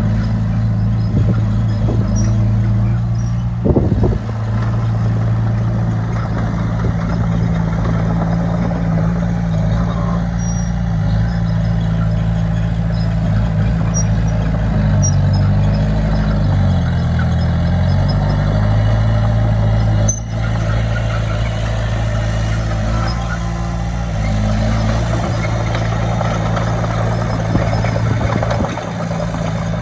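Bulldozer's diesel engine running steadily, its pitch sagging under load about halfway through and then recovering. A short knock comes a few seconds in.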